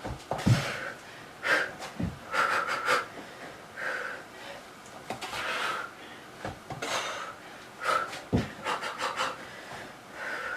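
A woman panting hard in short, quick breaths during a bodyweight kickboxing and squat workout, with a few dull thumps of body movement.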